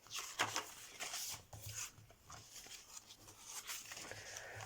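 Soft rustling and light brushes of paper being handled as a fold-out page of a handmade journal is opened out, busiest in the first two seconds.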